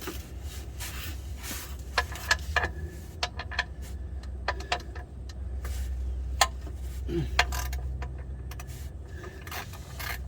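Scattered metallic clinks, knocks and rattles from handling an automatic transmission on a transmission jack, over a steady low hum.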